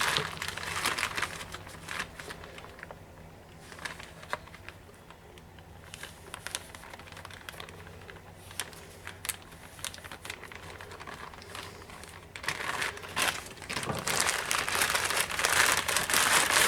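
Plastic sandwich bag crinkling as it is handled, in busy spells in the first couple of seconds and again for the last few seconds, with only scattered crackles in between.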